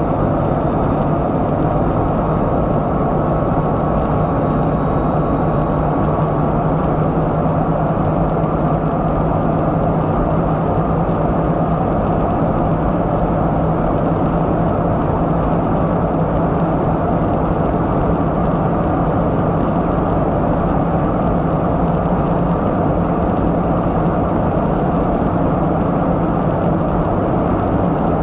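A Bugatti Chiron Super Sport running at a steady speed: a loud, unchanging drone with a constant low hum and road and wind noise, with no revving or gear changes.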